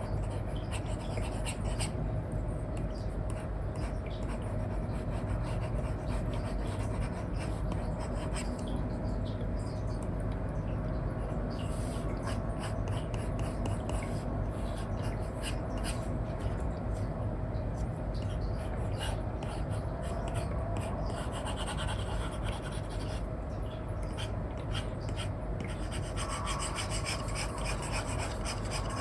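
Apple Pencil 2 with an Elecom nib scratching across a paper-like screen film on an iPad in many quick, repeated colouring strokes, over a steady low background noise.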